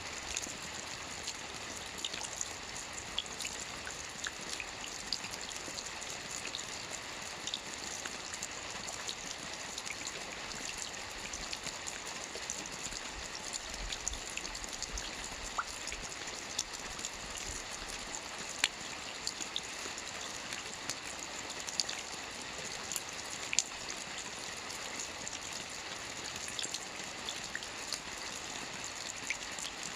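Gentle light rain falling steadily with no thunder: an even patter, with scattered individual drops ticking clearly here and there.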